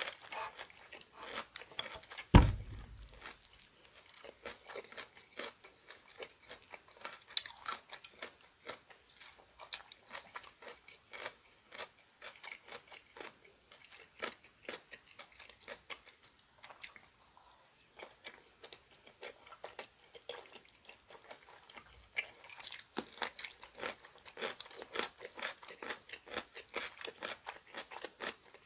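Close-miked eating: chewing, biting and crunching food, a run of small sharp mouth clicks that grows busier near the end. About two seconds in comes a single heavy thump, the loudest sound.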